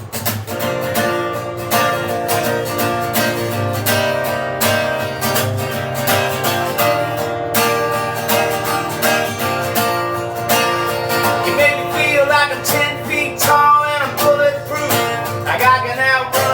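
Acoustic guitar strummed in a steady rhythm, playing the intro of a song.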